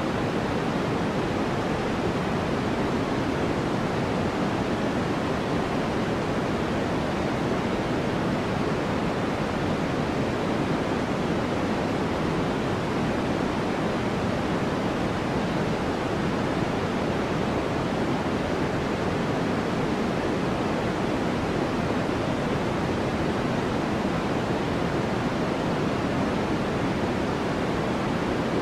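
Steady, unchanging white-noise hiss, heavier in the low and middle pitches than in the highs. It is the masking layer of a subliminal audio track.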